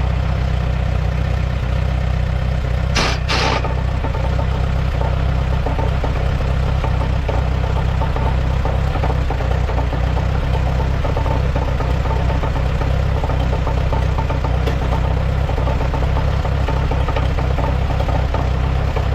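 1948 Allis-Chalmers C tractor's four-cylinder gasoline engine idling steadily in neutral with the PTO off. There are two sharp knocks about three seconds in.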